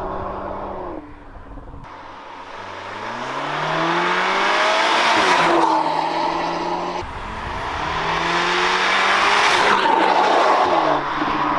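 Audi S3 2.0 TFSI turbocharged four-cylinder accelerating hard at full throttle, its revs climbing steadily and then dropping at each gear change, with a dip about a second in and shifts near the middle and near the end.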